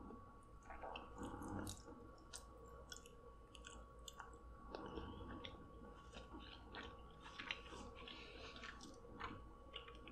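Faint close-up chewing of soft, sauce-coated seafood: scattered wet clicks and smacks of the mouth, with no talking.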